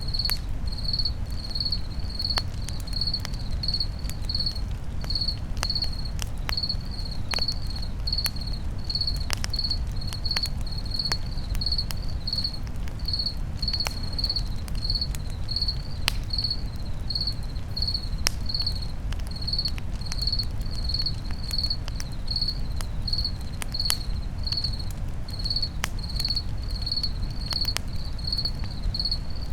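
Crickets chirping steadily, about two chirps a second, over a campfire crackling with irregular sharp pops and a low steady rumble.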